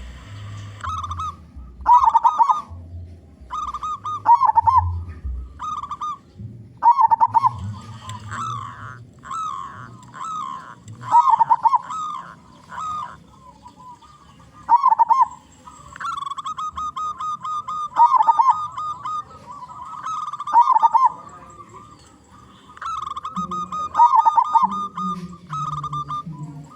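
Zebra dove (perkutut) cooing in loud, rolling phrases that come every two to three seconds, with a longer, even trill about two-thirds of the way through.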